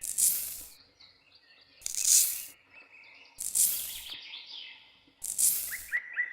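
Small birds chirping in short falling notes, with a loud hiss that comes in strokes about every second and a half, four times.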